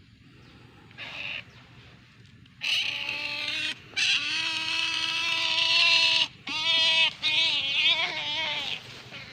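Otter giving long whining calls: a short call about a second in, then a string of drawn-out, steady-pitched whines from about two and a half seconds, the last one wavering up and down.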